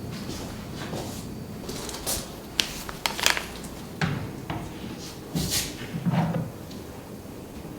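Household handling sounds: a string of light knocks and clicks, several in quick succession from about two seconds in until past six seconds, like cupboard doors or drawers being worked.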